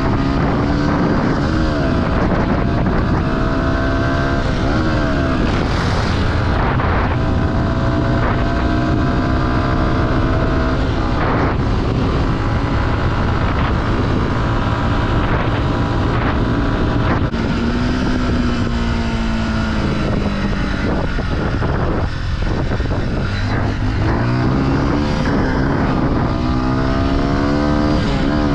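Small off-road vehicle engine running under way, its pitch climbing as it revs up and then dropping back at each gear change, several times over.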